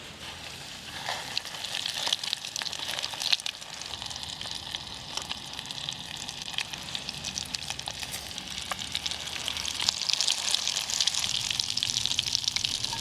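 Chicken pieces frying in hot oil, a steady sizzle full of fine crackles that grows louder over the last few seconds.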